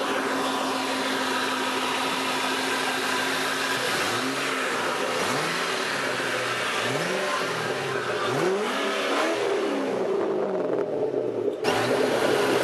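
Supercharged V8 of a 2010 Ford Mustang Shelby running at a steady idle, then revved again and again from about four seconds in, each rev rising and falling in pitch.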